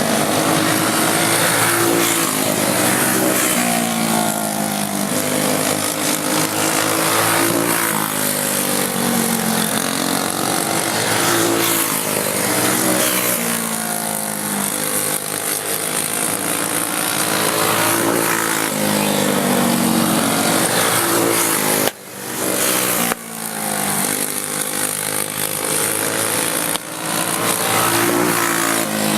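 A pack of racing karts with small single-cylinder Briggs & Stratton Animal engines running flat out, their pitch rising and falling every few seconds as they accelerate down the straights and lift for the turns. The sound drops out briefly about 22 seconds in and again near the end.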